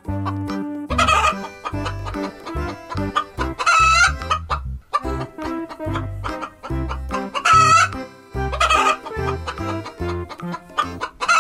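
Hens clucking and squawking, a loud call every two to four seconds, over background music with a steady bass beat.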